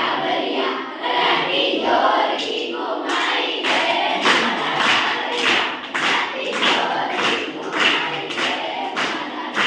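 A group of children singing a song together. About three seconds in, rhythmic hand clapping joins at roughly two claps a second.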